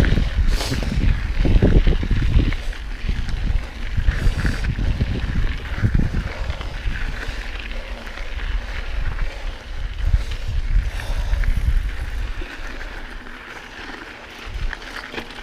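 Mountain bike riding over a dirt trail: wind buffeting the camera microphone with an uneven low rumble, tyres rolling on dirt and rock, and a few knocks and rattles from the bike. The rumble is heaviest in the first couple of seconds and eases off toward the end.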